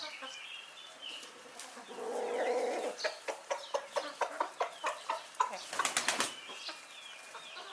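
Chickens flapping their wings during feeding, with a run of quick knocks and taps from about three seconds in and thin high chirps.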